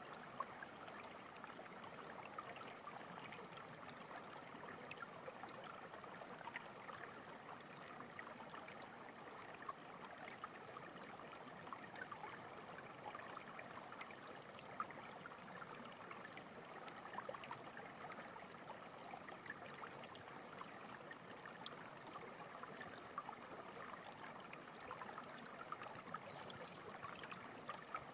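Stream water running and babbling steadily, with many tiny splashes and drips.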